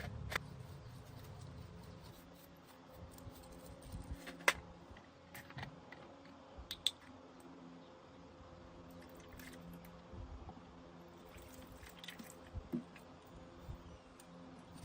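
Scattered light clicks and taps, a few seconds apart, over a faint steady hum.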